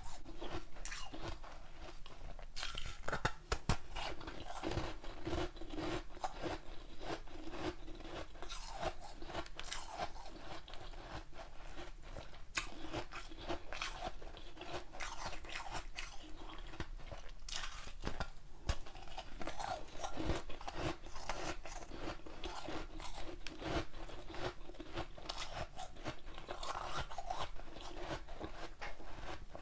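Close-miked biting and chewing of hard ice: repeated sharp, irregular crunches and crackles as chunks of ice are bitten off and crushed between the teeth.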